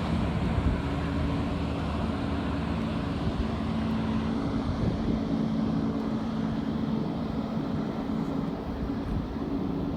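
A motorboat engine running with a steady drone, with wind rumbling on the microphone.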